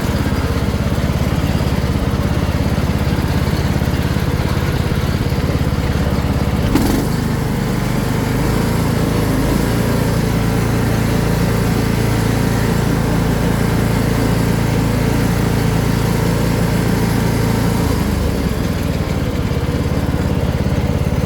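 Riding lawn mower's small engine running steadily. A short knock comes about a third of the way in, after which the engine note changes for about ten seconds before going back to its first sound.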